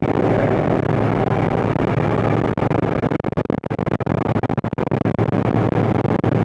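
The 1993 John Deere 8970's six-cylinder Cummins diesel running steadily under load while pulling a tillage tool, with a constant low hum. About three to five seconds in the sound turns choppy with brief drop-outs.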